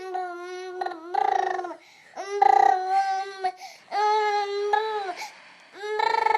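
A baby's angry, fussy vocalizing: a string of about five drawn-out, steady-pitched wails, each about a second long and dropping in pitch at the end, with short breaths between them.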